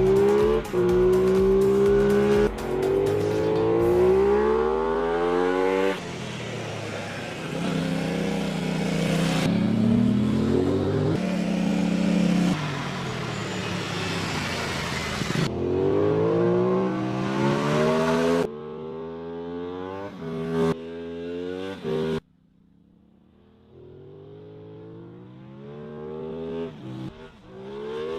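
Aprilia Tuono 660's parallel-twin engine revving and accelerating, its exhaust note rising in pitch again and again through a run of cut-together clips. It drops to near silence for a moment about two-thirds of the way through, then builds up again.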